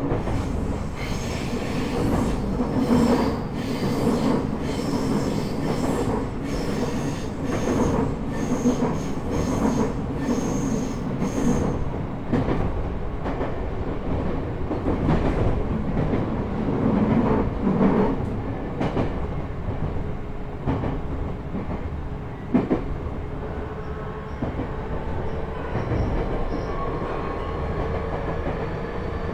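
Running noise heard inside a JR East E127 series EMU motor car (KuMoHa E127-11): a steady rumble of wheels and traction motors, with high-pitched wheel squeal and rail-joint clicks through the first part. Near the end a faint rising whine comes from the Toyo Denki GTO-VVVF inverter and motors as the train picks up speed.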